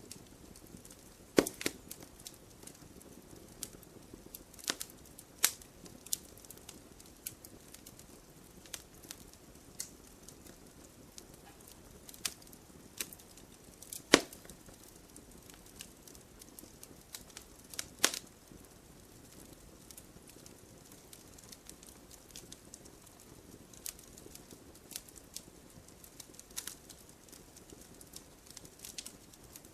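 Wood fire crackling in a fireplace: irregular sharp pops and snaps over a faint steady hiss, with a few louder pops about 1.5, 5.5, 14 and 18 seconds in.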